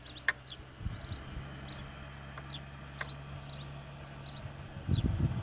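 Small birds chirping, short high calls repeating every half second or so over a low steady hum, with a sharp click shortly after the start and low thumps near the end.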